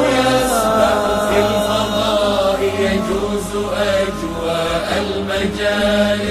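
Wordless vocal chanting of an Arabic nasheed melody over a steady held drone, a sung interlude between the verse and the returning chorus.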